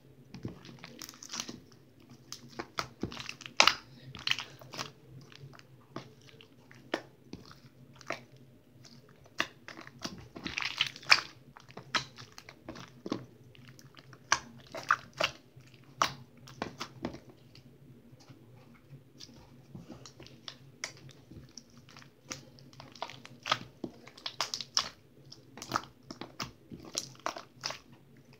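Homemade slime being squished and worked by hand close to the microphone: irregular wet clicks and crackles.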